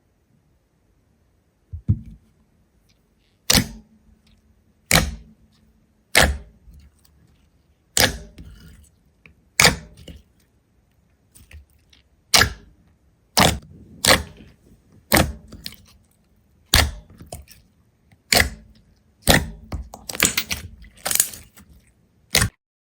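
A series of sharp cracks or snaps, one about every second, starting about two seconds in and bunching into a quick flurry near the end, with a faint low hum underneath at times.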